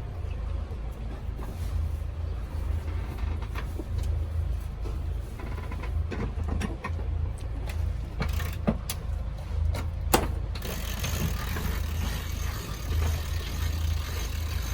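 Deck hardware on a sailing catamaran clicking and knocking over a steady low rumble, with two sharper knocks about nine and ten seconds in, then a hiss from about ten and a half seconds on.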